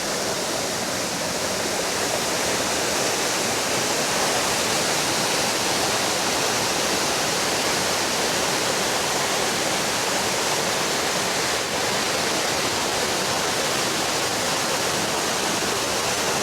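Waterfall rushing: a steady, even noise of falling water that does not let up.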